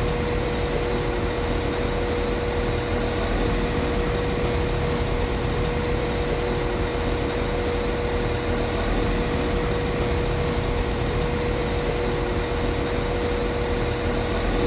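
Class 195 CAF Civity diesel multiple unit's MTU underfloor diesel engine idling steadily, with a constant hum a little below 500 Hz over the low engine rumble.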